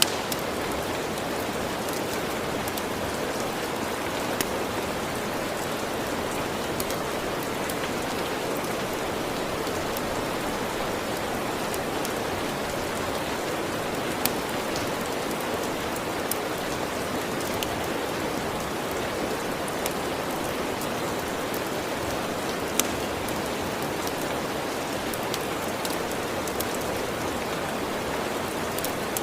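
Steady rain falling, a constant even hiss, with occasional sharp crackles and pops from a wood fire every few seconds.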